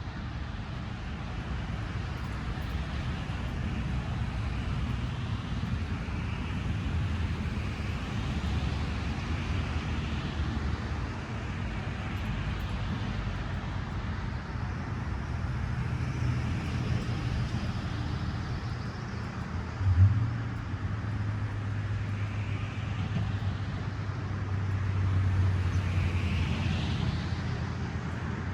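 Steady outdoor rumble of road traffic, with engine hum and vehicles swelling past every few seconds. A single short knock about two-thirds of the way through.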